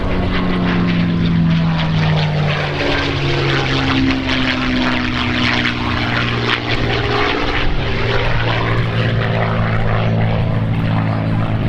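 P-51 Mustang's Rolls-Royce Merlin V-12 engine running at power on a flypast, its pitch dropping early on as the plane passes, then holding a steady drone.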